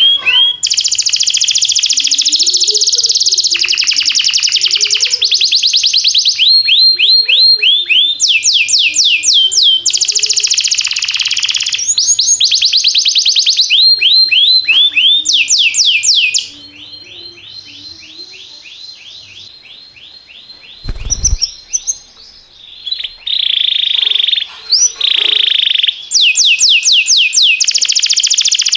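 Domestic canary singing a long song made of fast trills and rolls of rapidly repeated notes. The song drops to a quieter passage past the middle, where one brief low thump is heard, then returns to full strength near the end.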